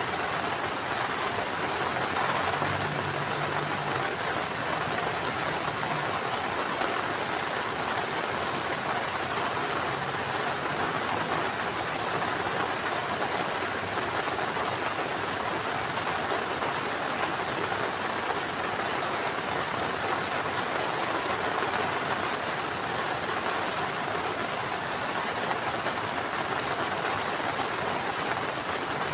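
Heavy rain falling steadily: a dense, even hiss of rain on surfaces. A faint low hum sits under it in the first few seconds.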